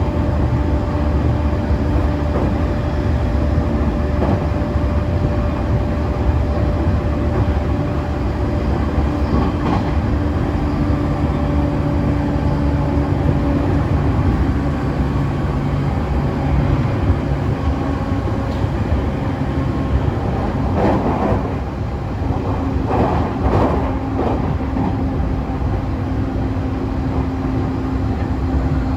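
JR East E531 series electric train running between stations, heard from inside the car: steady running noise with the whine of its Hitachi IGBT inverter and traction motors. Its tones shift a little as speed changes, and a few knocks come from the wheels about two-thirds of the way through.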